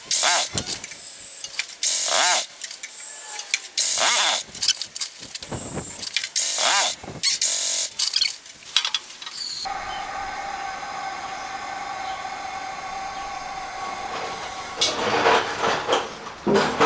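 Ride-on lawnmower engine being cranked over by its starter in short repeated bursts while the fuel is still reaching the carburettor. About ten seconds in, it changes suddenly to a steady engine drone lasting about five seconds, then more short cranking bursts near the end.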